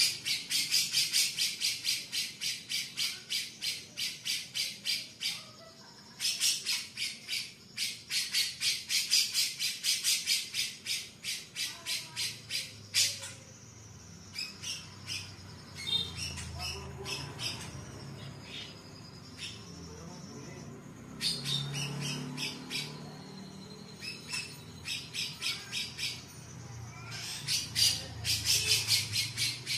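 Cucak jenggot (grey-cheeked bulbul) calling in long runs of rapid, harsh chattering notes, about three a second, in bursts of several seconds with short pauses and scattered single calls between.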